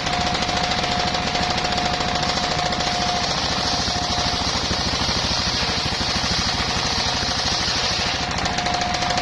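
Engine-driven circular sawmill running hard with a fast, even engine beat. The free-spinning blade's steady whine gives way, a few seconds in, to the hissing rasp of the blade cutting through bayur timber. The whine returns near the end as the blade runs clear.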